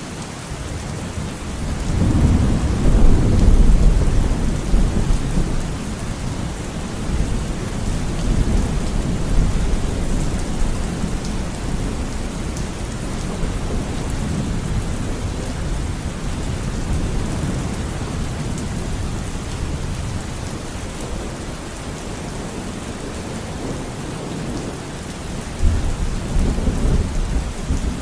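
Steady rain falling with thunder rumbling. A loud rumble swells about two seconds in and slowly fades, and another low rumble starts near the end.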